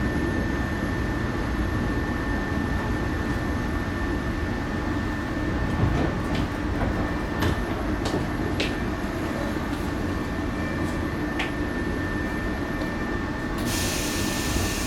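Cabin sound of a 115 series electric train running: a steady low rumble of wheels on rail with a thin steady high tone and a few sharp clicks from the track. Near the end comes a loud burst of hissing.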